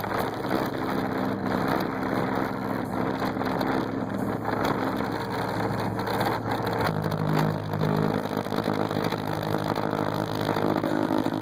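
Music with heavy bass played loud through a truck's stereo system. Low bass notes are held and change about seven seconds in.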